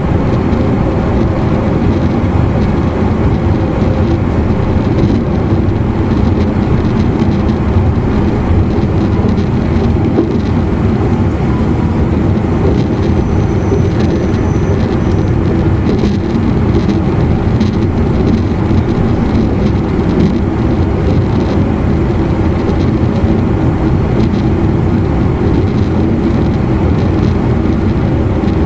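Steady running noise inside an E259 series Narita Express motor car: wheels on rail and the car's traction equipment, a dense low noise with a faint steady whine above it.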